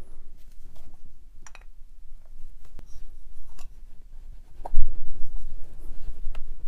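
Small clicks and scrapes of metal parts being handled as a freezer-chilled 6004 ball bearing is pushed into the rotary hammer's housing, with one dull knock a little before five seconds in.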